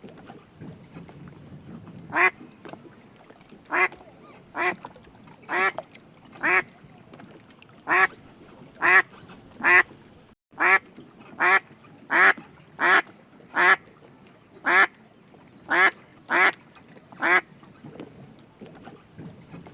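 A duck quacking: about twenty short, single quacks at an uneven pace of roughly one every half second to second. They begin about two seconds in and stop a couple of seconds before the end.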